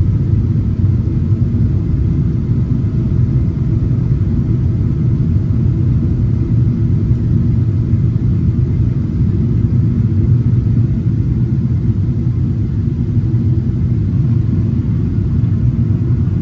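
Steady low rumble of a Boeing 777-300ER cabin in flight: airflow and GE90 engine noise heard from a window seat, unchanging throughout.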